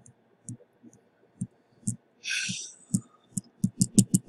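Fingertips tapping on an iPhone 6 Plus touchscreen during a touch test after a touch IC repair: irregular soft taps and clicks that come faster near the end. A short hiss comes about two seconds in.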